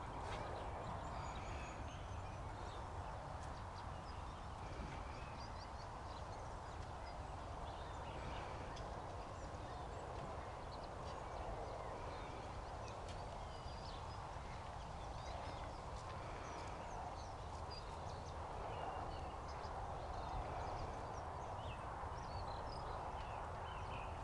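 Faint outdoor ambience: many short, high bird chirps scattered through a steady low rumble of background noise.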